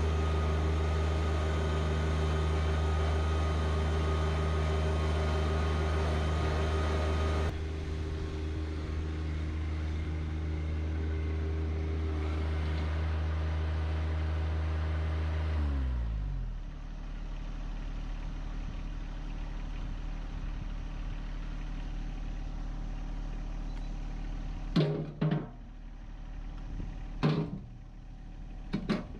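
John Deere 1025R compact tractor's diesel engine running at a steady speed, then throttled down to a lower idle about halfway through. A few sharp knocks come near the end.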